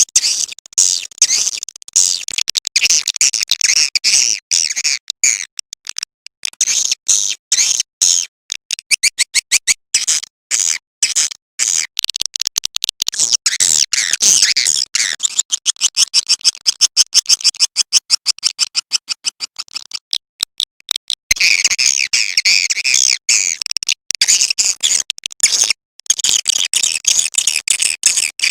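Recorded swiftlet (walet) call sound: a dense, rapid stream of high-pitched chirps and twitters, thinning for a few seconds past the middle and then returning strongly. It is a calling sound ('suara panggil') of the kind played to lure swiftlets into a nesting house.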